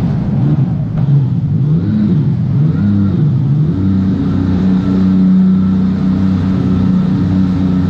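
Sea-Doo jet ski engine running, its pitch rising and falling with the throttle for the first few seconds, then holding steady from about four seconds in.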